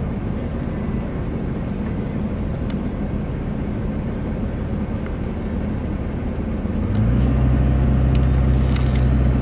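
Car running at low speed, heard from inside the cabin while pulling in to park, with a steady low hum. About seven seconds in, a louder, deeper hum comes in and holds, with a few faint clicks near the end.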